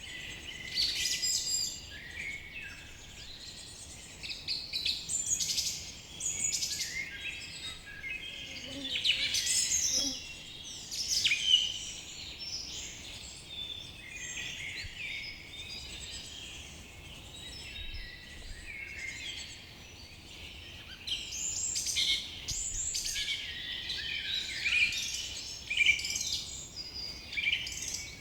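A chorus of several songbirds singing and chirping at once, overlapping trills and quick whistled phrases, busier in stretches. A faint steady hiss lies underneath.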